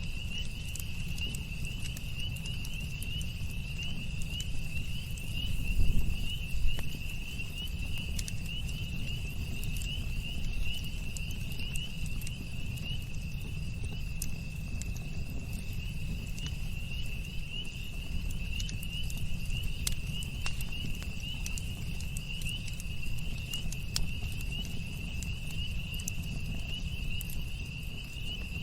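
Campfire crackling with scattered sharp pops over a low steady rumble of burning, with a brief louder low swell about six seconds in. Steady high-pitched insect chirring runs underneath.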